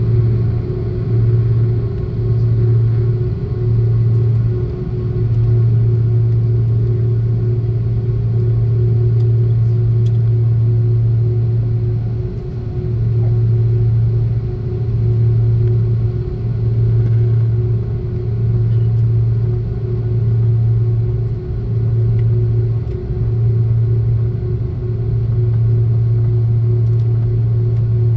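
Airbus A330-300 jet engines heard from inside the passenger cabin: a steady drone with a strong low hum that pulses about once a second, over a steady higher tone and a rushing hiss.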